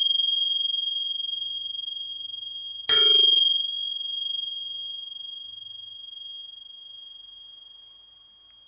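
Tingsha cymbals ringing: the ringing of one strike is fading when a second strike about three seconds in rings out with one clear high tone that slowly dies away.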